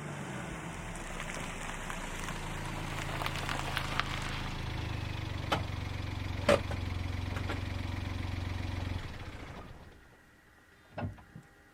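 A motor, most like a vehicle engine, running with a steady low hum and a few light clicks over it; the hum dies away about nine to ten seconds in. A few sharp knocks follow near the end.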